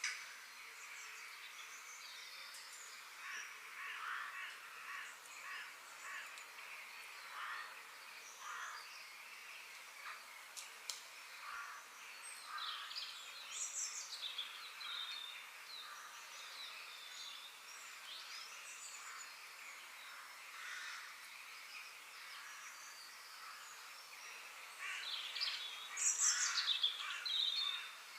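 Several birds calling and chirping in short, scattered calls and pitch-sliding notes over a faint steady background hiss, with a louder flurry of calls near the end.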